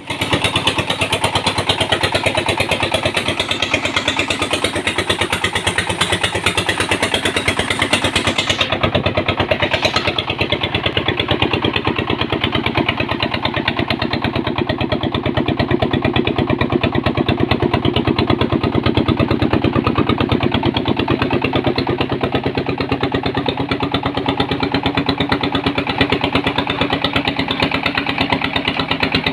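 Engine of a red-brick press machine running steadily, with a rapid, even beat.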